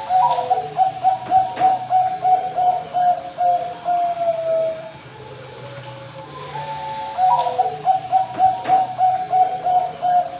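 Zebra dove (perkutut) of the Bangkok contest line singing its cooing song: a quick stuttering run of notes that ends in a long falling note. One song ends before the middle and a second begins a little past halfway.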